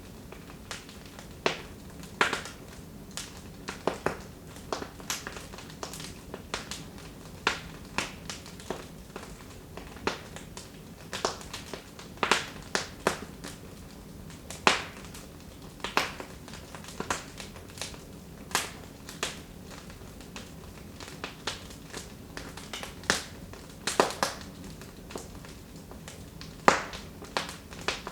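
Wood fire in a fireplace crackling: irregular sharp pops and snaps, one or two a second, over a low steady hiss of burning.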